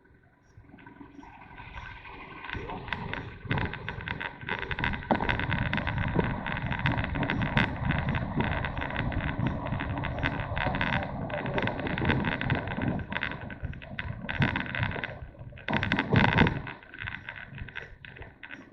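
A motorcycle on the move, heard through a bike-mounted camera, with wind buffeting the microphone in a rough, crackling rush. It builds over the first couple of seconds, dips briefly past the middle, flares up loudly just after, then eases off near the end.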